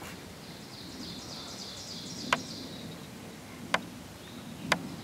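A small songbird's rapid, high-pitched trill lasting about two and a half seconds. Three sharp clicks or twig snaps ring out about a second apart over a soft low rustle.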